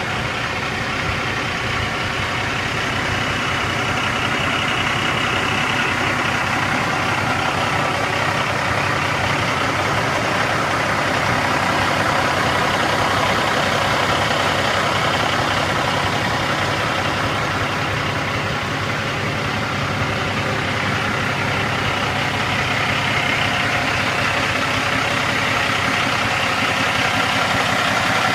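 Cummins ISX diesel engine of a heavy dump truck idling steadily.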